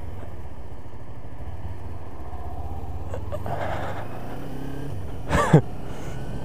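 Kawasaki Ninja 250 parallel-twin engine running steadily while riding. About five seconds in, a short, loud sweep falls quickly in pitch across it.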